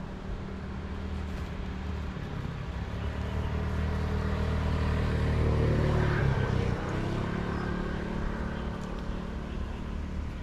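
A motor vehicle passing by: its engine grows louder to a peak about six seconds in, then fades away.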